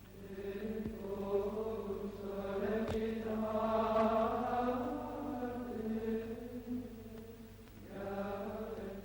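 Music of voices chanting long held notes, swelling to a peak in the middle, dipping and then returning near the end.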